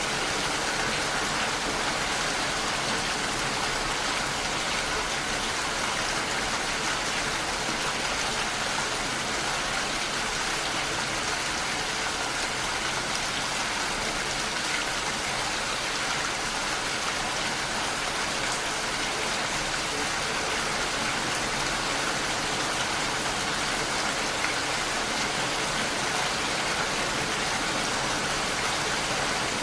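Steady, even rainfall with dense drops on a surface, with no breaks or single events.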